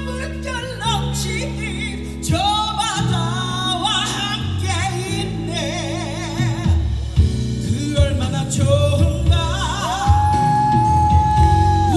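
Live rock band with a female lead vocalist singing wordless ad-libs with wide vibrato over the band. About ten seconds in she holds one long note.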